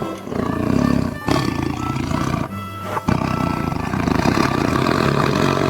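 A tiger roaring and growling in three long, rough stretches, over steady background music.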